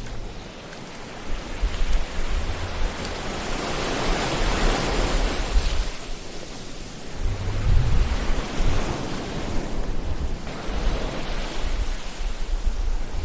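Ocean waves breaking and washing on a shore, the surf swelling up and easing off in a steady hiss, with low rumbling surges underneath.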